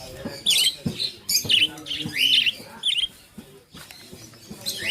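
A bird chirping in a run of short, quick chirps over the first three seconds, then a brief lull, then chirping again near the end.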